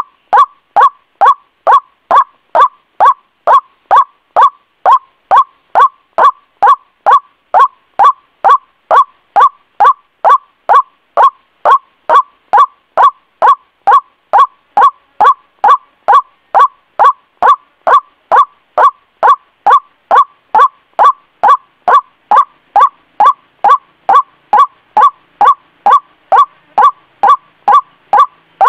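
White-breasted waterhen (ruak-ruak) calling over and over in a steady, even rhythm, about two to three short notes a second, each strongest around the same pitch: a recorded lure call used to draw the birds in.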